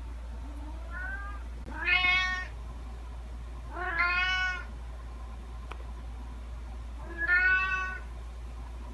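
Domestic cat meowing: a faint short meow about a second in, then three loud meows of about half a second each, the last after a longer pause. A steady low hum runs underneath.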